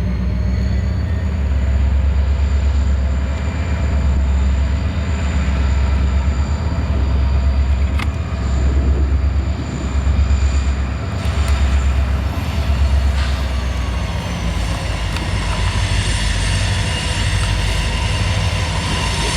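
Norfolk Southern freight train rolling past: heavy, pulsing diesel rumble with a thin high whine from the wheels, and more high squealing building near the end.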